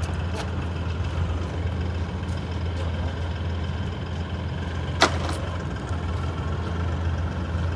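Truck engine idling with a steady low hum, and a single sharp knock about five seconds in.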